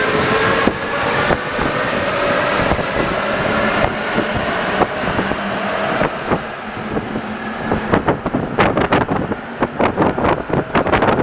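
Rubber-tyred NS-74 metro train running, a faint whine rising slowly in pitch over the running noise. Near the end come rapid, irregular clacks and knocks.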